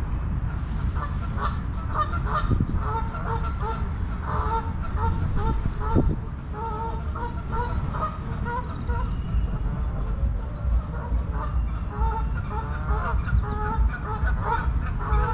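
Geese honking over and over, many short calls overlapping, with small birds chirping high above them in the second half and a steady low rumble underneath.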